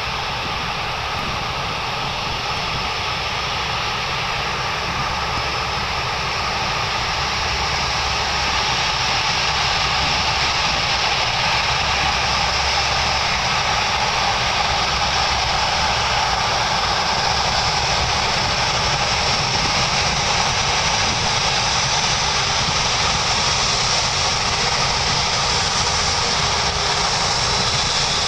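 Four Rolls-Royce Trent 970 turbofans of a British Airways Airbus A380 running with a steady jet roar, growing a little louder about eight seconds in and with a brighter high whine toward the end.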